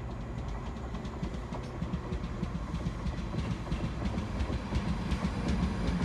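Electric multiple-unit passenger train approaching along the platform, its wheels rumbling on the rails and growing louder, with sharp wheel clicks over the rail joints coming faster and louder as it draws near.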